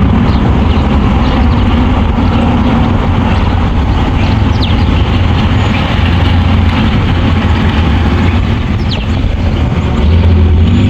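Loud steady low rumble with a hiss over it, with a couple of faint short high chirps about four and nine seconds in.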